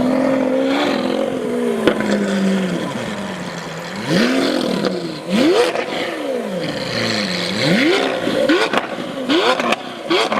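Lamborghini Aventador V12 with a full iPE exhaust and cat bypass, very loud: it holds a steady rev for about three seconds, then is blipped in a run of quick revs that come faster toward the end, with sharp pops from the exhaust between them.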